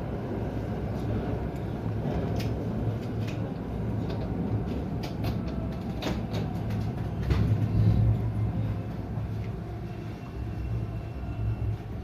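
Interior of a local electric train standing at a station: a steady low hum with scattered clicks and knocks, briefly louder a little past the middle.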